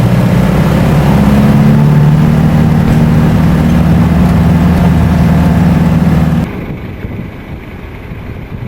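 Motor vehicle engine running under load, a steady low hum that rises a little in pitch about a second in and then holds. About six and a half seconds in it cuts off abruptly, leaving a quieter, rougher rumble.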